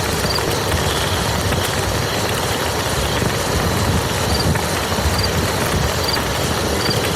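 Steady rain falling on a muddy field, an even unbroken hiss.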